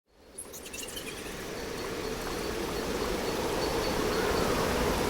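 A steady rushing ambient noise that fades in from silence and slowly swells, with a few short high chirps about half a second in.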